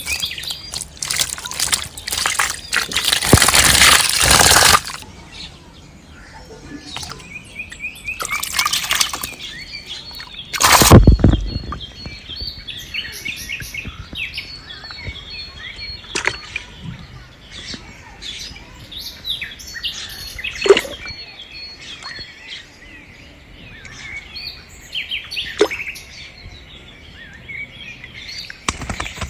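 Birds chirping throughout, with a few loud bursts of noise, the loudest a sharp one about eleven seconds in.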